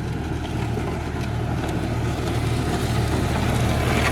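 Diesel engine of an LS compact tractor running steadily under load while pulling a land leveler, growing gradually louder.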